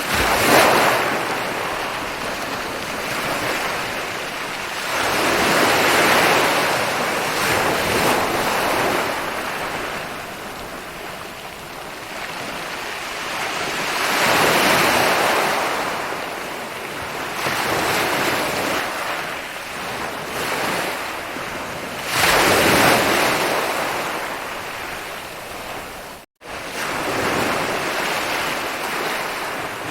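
Ocean waves breaking and washing up on a beach, each surge rising and falling away over a few seconds, with four big breakers and smaller ones between. The sound drops out for a split second late on.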